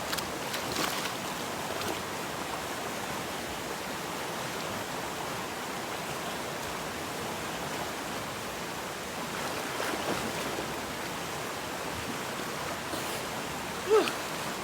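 River water flowing steadily over a rocky bed. A short pitched sound, like a brief vocal cry, stands out near the end.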